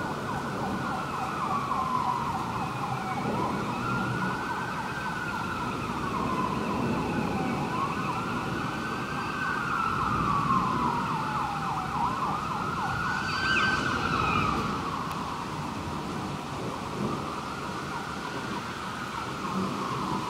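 Emergency vehicle siren wailing, its pitch rising and falling slowly about every four to five seconds, over a steady low background rush.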